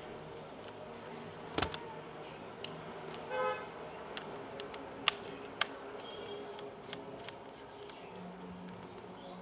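Sharp plastic clicks and taps from tools working on a PS5 controller being taken apart for repair, four or five single clicks over a steady background hum. A short pitched toot sounds about three and a half seconds in.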